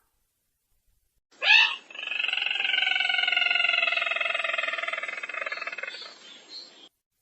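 Recorded lure call of the sintar merah bird: a short rising note about a second in, then one long, rapidly pulsing trill that falls slightly in pitch and fades out near the end.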